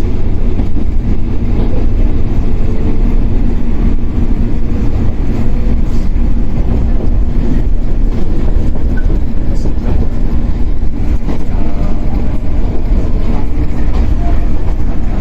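Running sound inside a Shinano Railway 115 series electric train's motor car (KuMoHa 115-1013): its MT54 DC traction motors and steel wheels on rail, heard from the cabin at a steady speed. It is a loud, steady rumble with a steady hum.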